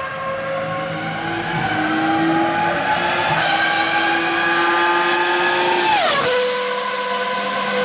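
Nissan 370Z's 3.7-litre V6 accelerating, its pitch climbing steadily for about six seconds, then dropping sharply at an upshift and running on at the lower pitch.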